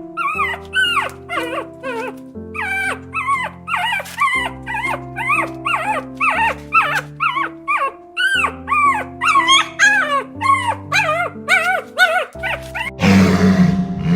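An animal making a fast series of short, high calls that rise and fall, about two or three a second, over background music with held notes. A louder, rough, noisy sound begins near the end.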